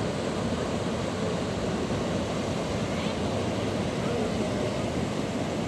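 Fast-flowing mountain river rushing steadily over stones, a constant deep wash of water.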